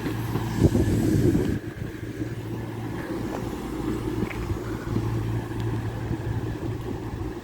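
Diesel engines of a pair of Class 220 Voyager units running steadily with a low hum, a little quieter from about a second and a half in.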